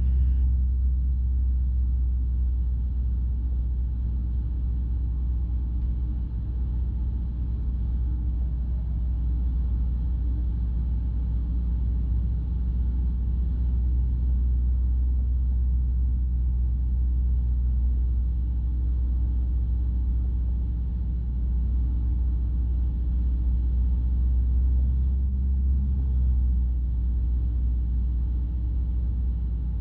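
Light aircraft's piston engine and airflow heard from inside the cockpit, a steady low drone that holds an even note throughout.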